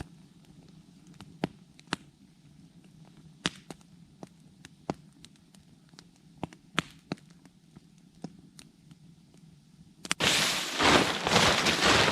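Campfire crackling, with scattered sharp pops at irregular intervals. About ten seconds in, a much louder, dense rustling-crackling noise takes over.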